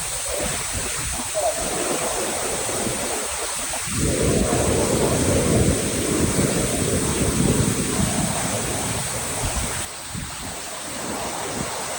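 Steady rushing roar of a waterfall, a dense wash of falling water. It steps louder about four seconds in and drops suddenly near the ten-second mark.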